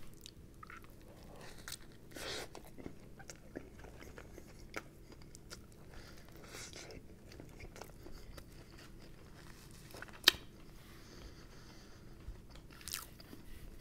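Faint close-miked mouth sounds of a person chewing a fried chicken sandwich, with scattered soft crunches and smacks and one sharp click about ten seconds in.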